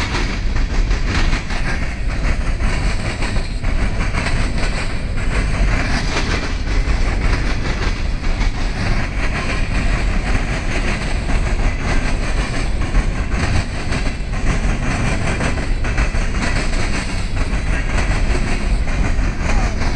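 CSX coal train's open-top hopper cars rolling past, steel wheels on the rails making a steady loud rumble with continual clickety-clack.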